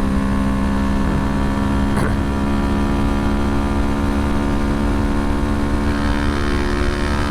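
2011 Kawasaki Ninja 250R's parallel-twin engine running at a steady cruise on the road, with a low rumble of wind on the helmet-mounted microphone. There is a brief click about two seconds in.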